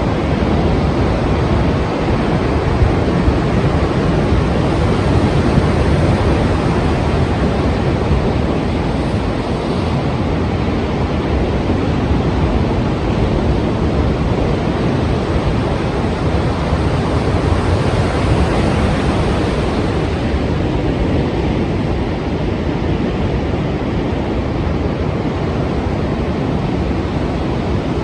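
Strong sea surf: a continuous rush of breaking waves that swells a little about a third of the way in and again about two-thirds in.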